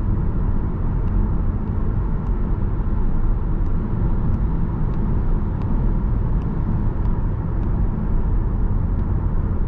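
Steady road and engine noise inside a car cruising in fourth gear at about 80 km/h, the engine turning near 2500 rpm. Faint light ticks come now and then.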